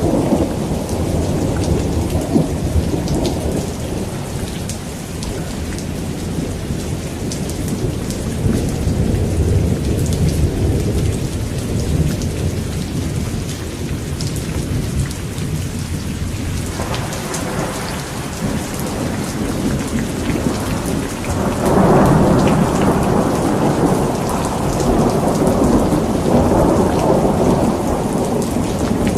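Thunderstorm: steady rain falling, with rolling thunder rumbling underneath. The thunder swells to its loudest about three-quarters of the way through.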